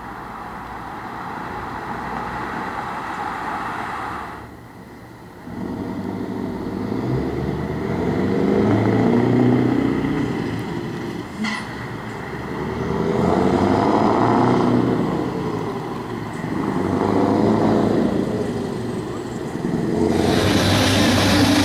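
Scania 4-series V8 truck engine running, rising and falling in loudness and pitch several times, with a brief drop about five seconds in and a single click about halfway through.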